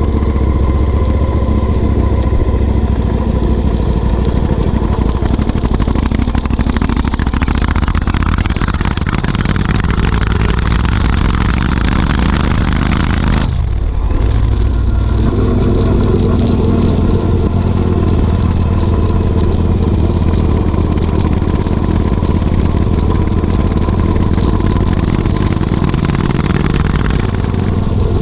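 Royal Enfield Interceptor 650's parallel-twin engine running through a Motowings aftermarket exhaust, a deep steady rumble. About halfway the note drops out briefly, then it picks up again.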